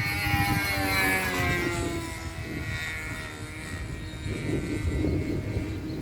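OS .46 glow engine of a model airplane running at speed, its propeller whine falling slowly in pitch and fading over the first few seconds.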